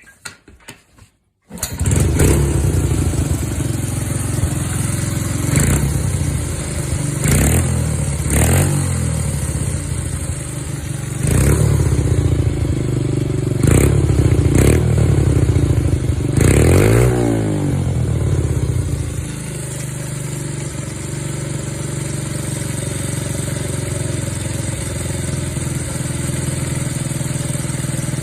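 Honda Monkey Z50J's small four-stroke single-cylinder engine, breathing through an aftermarket upswept long muffler, starts about a second and a half in. It is blipped several times, with one longer rev that rises and falls in pitch, then settles into a steady idle for the last third.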